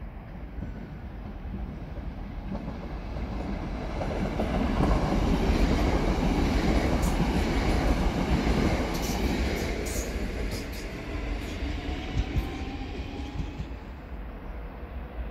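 Red DB Regio electric multiple unit passing on a nearby track: the rumble of its wheels and running gear builds, holds at its loudest for a few seconds, then fades as it goes by. Sharp clicks from the wheels on the rails come at the loudest part.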